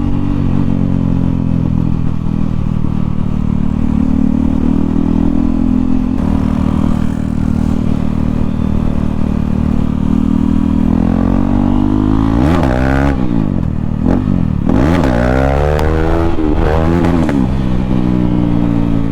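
KTM Duke 390 single-cylinder engine running loud with no exhaust muffler while riding, steady at first, then revved up and down sharply several times in the second half.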